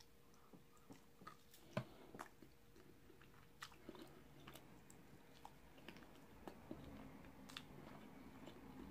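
Faint close-up chewing and lip-smacking of a person eating baked chicken off the bone, with scattered small wet clicks.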